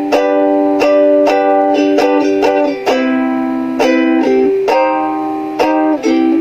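A strummed acoustic string instrument playing a chord progression on its own, each chord struck sharply roughly every half second and left to ring.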